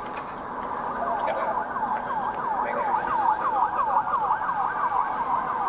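Emergency vehicle siren in rapid yelp mode, its pitch sweeping over and over about four times a second, growing louder as it comes in about a second in.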